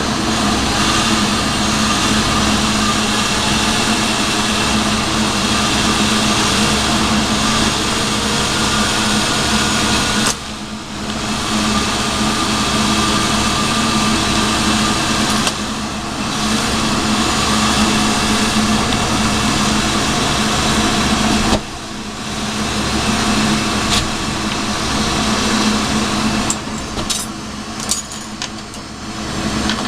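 Steady hiss of a glassblowing bench torch running, over a constant hum of shop equipment. The sound dips briefly about 10, 16 and 22 seconds in, and a few sharp clicks come near the end.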